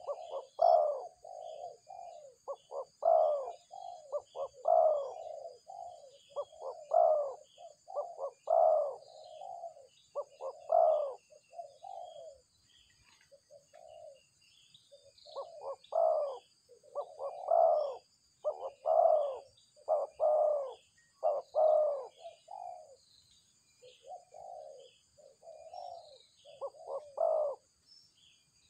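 Spotted doves (balam) cooing in repeated phrases of low, hollow notes, with a pause of a few seconds about halfway. Faint small-bird chirps and a steady high hum sit underneath.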